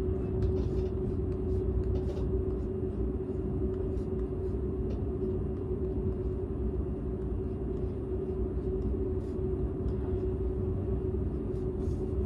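Running noise inside the passenger cabin of a Seibu 001 series Laview limited express train, heard from an unmotored control trailer car: a steady low rumble with a constant hum and a few faint ticks.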